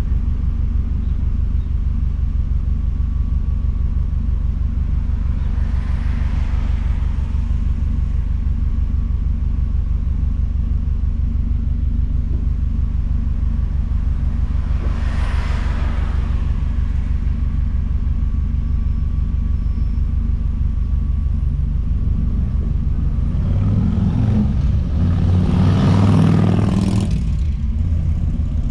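Straight-piped Subaru WRX STI's turbocharged flat-four engine and exhaust rumbling steadily while driving, swelling louder for a few seconds near the end.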